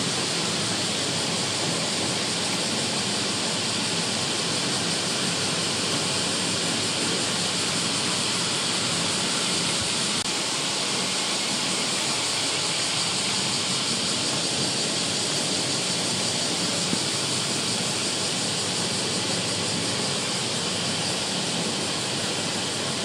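Steady rushing noise of typhoon weather, wind and rain, holding at an even level throughout.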